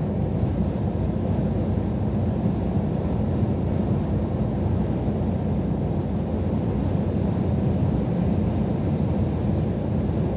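Scania R500 truck's inline-six diesel running at a steady cruise, a constant low drone with road and wind noise, with no change in pitch or level.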